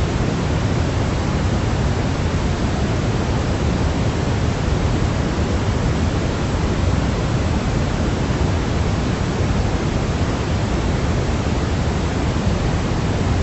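Steady sleep noise for babies: an even, unchanging hiss with a deep, rumbling low end and no rhythm or events.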